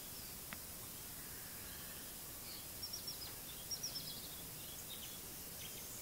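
Wild birds calling in short bursts of high, quick, falling chirps, strongest in two clusters around the middle, over a steady faint background hiss. There is a single faint click shortly after the start.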